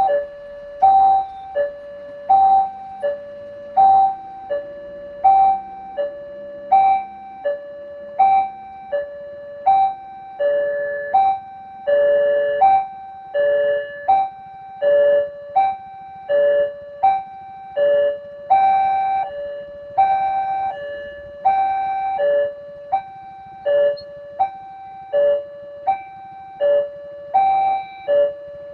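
Railway level-crossing warning alarm: an electronic two-note chime, a high note then a lower one, alternating over and over, with a steady hiss of heavy rain underneath.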